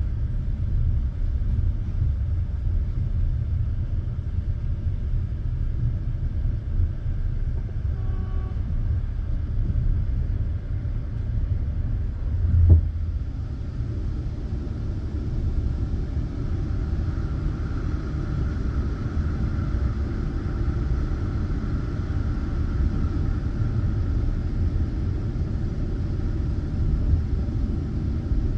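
Passenger train running on the track: a steady low rumble of the wheels on the rails, with one sharp knock about halfway through.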